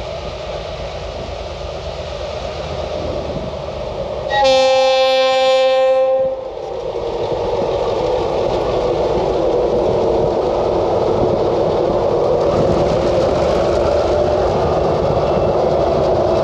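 Diesel ore train on the approach, sounding its horn in one steady blast of about two seconds a few seconds in. The rumble of the locomotive and wagons on the rails then grows louder and stays heavy.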